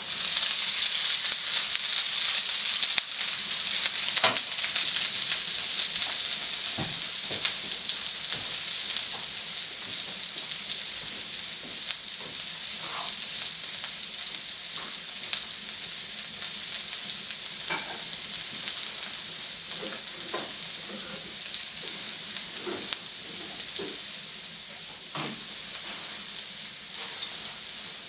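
Sliced onion sizzling in hot olive oil in a frying pan. The sizzle is loudest at the start and slowly dies down, with a few scattered light clicks.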